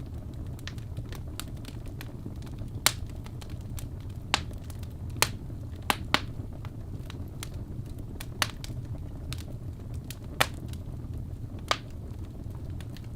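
Birch logs burning in a fireplace, crackling with sharp, irregular pops over a steady low rumble. About eight of the pops stand out loudly, scattered among many smaller snaps.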